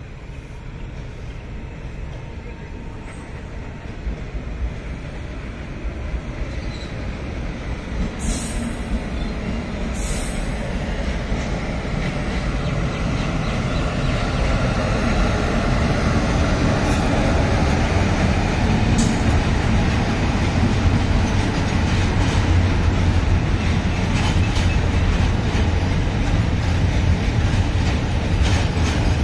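Freight train hauled by an electric locomotive approaching and rolling past, a rumble of steel wheels on rail that grows louder over the first half and then holds steady as the loaded flat wagons go by. A few brief high wheel squeals come in the first half.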